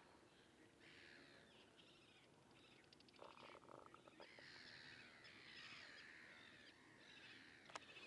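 Faint birdsong: several birds singing, with many short sweeping notes.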